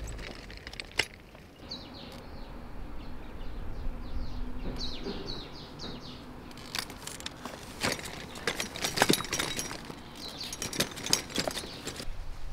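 Birds chirping in quick runs of short, high notes, twice, over an open-air background, with scattered sharp clicks and knocks, the loudest about nine seconds in.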